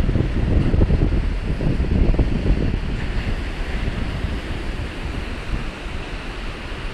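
Baltic Sea surf washing onto the shore, with wind buffeting the microphone; the wind rumble is heaviest in the first three seconds, then eases.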